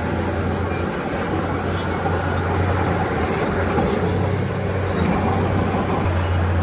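Heavy diesel earthmoving machinery running steadily with a constant low engine hum.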